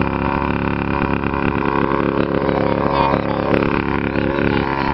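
Custom chopper motorcycle's engine idling steadily.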